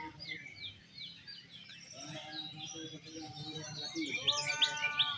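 Oriental magpie-robins (kacer) and other caged songbirds singing together in a dense chorus of chirps and quick whistled notes, with a louder run of sharp rising notes about four seconds in.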